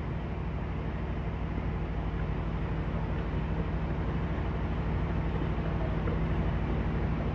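Large truck diesel engine idling steadily, a low, fast, even pulsing that grows slightly louder toward the end.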